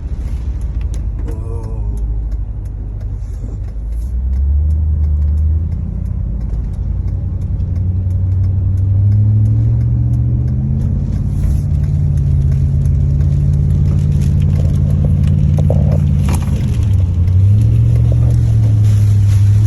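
Car engine and road noise heard from inside the moving car, the engine's pitch climbing gradually as it accelerates, dropping briefly near the end and then rising again.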